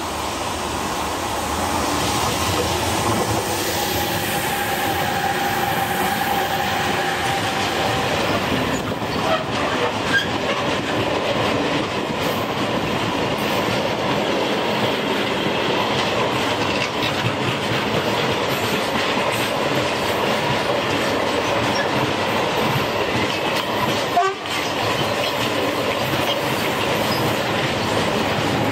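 Two Renfe class 253 (Bombardier Traxx) electric locomotives hauling a long container freight train past. The wagons' wheels run steadily over the rails, with faint steady tones from the locomotives in roughly the first eight seconds.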